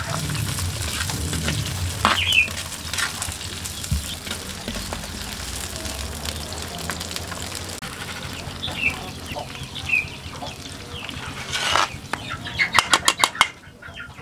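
Chillies, shallots, garlic and dried anchovies sizzling as they fry in oil in a wok, stirred and scraped with a perforated metal skimmer. Short bird calls come now and then. Near the end there is a quick run of sharp knocks.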